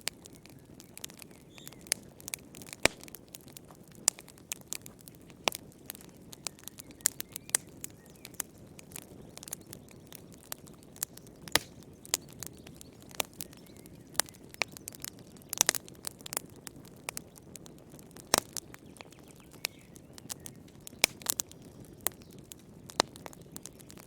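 Wood fire burning in a fireplace: irregular sharp crackles and pops, several a second, over a low steady hiss of the flames.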